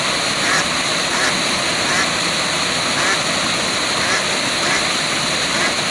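Steady rush of a waterfall, with faint short animal calls repeating about every three-quarters of a second over it.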